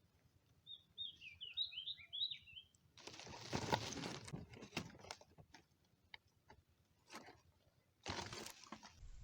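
A small bird twitters: a quick run of high chirps lasting about two seconds. After it come two short bursts of rustling, scraping noise with scattered clicks between them.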